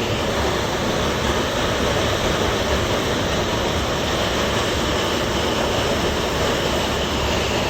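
Hailstorm: hail and heavy rain pelting down steadily, a dense, even clatter of countless small impacts with no letup.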